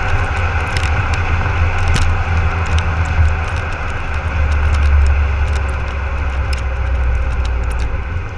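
Volvo XC60 D5 diesel engine running through its custom exhaust: a steady low drone with a few light clicks over it, easing off slightly near the end.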